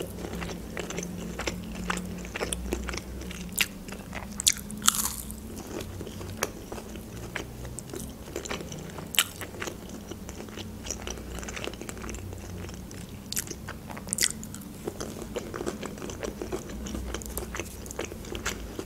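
Close-miked chewing of chicken nuggets dipped in cheese sauce: many soft, wet mouth clicks at an irregular pace, with a few louder bites and crunches.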